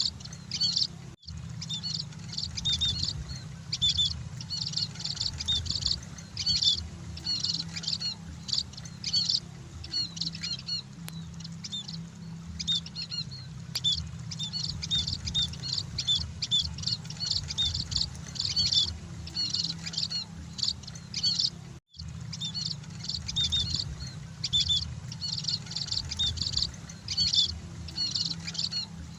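Munias (burung emprit, Lonchura finches) chirping continuously in dense, overlapping short high calls, over a steady low hum. The sound drops out for an instant twice.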